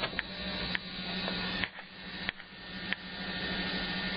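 Jeep Cherokee's 4.0 straight-six idling, heard from inside the cabin as a steady hum, with a few sharp clicks and knocks about a second apart in the first three seconds.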